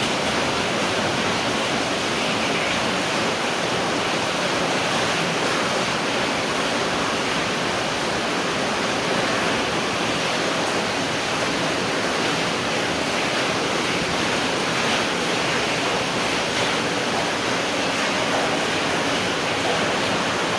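Steady rain falling at night, an even hiss that holds the same level throughout.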